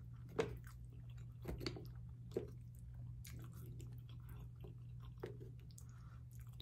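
A person chewing a mouthful of baked penne pasta with the mouth closed, with a few short clicks and smacks, the sharpest about half a second in, over a steady low hum.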